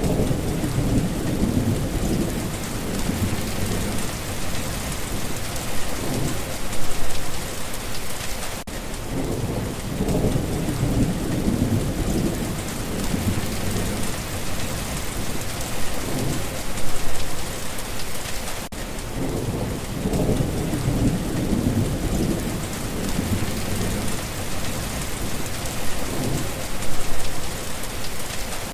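Steady rain with low rolling thunder that swells and fades every few seconds, loudest three times about ten seconds apart.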